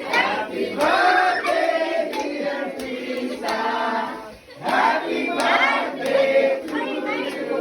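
Many voices singing together in chorus, with short breaks between phrases.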